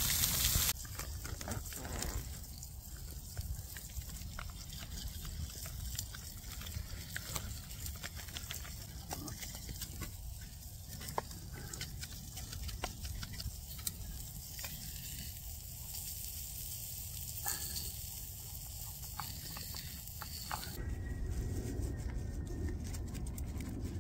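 Burgers sizzling in a pan over embers for about the first second, cut off suddenly. After that, a low rumble with scattered light clicks and taps, as a spoon stirs in a small metal mug.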